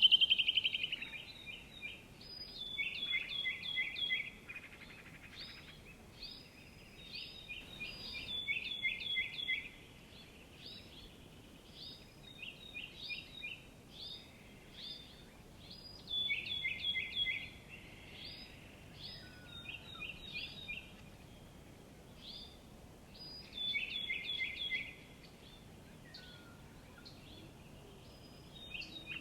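Songbirds singing: short phrases of quick, high chirping notes, repeated every few seconds, the loudest right at the start.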